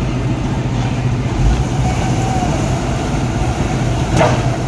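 Heavy vehicle engine running steadily, with a single sharp metallic clank about four seconds in.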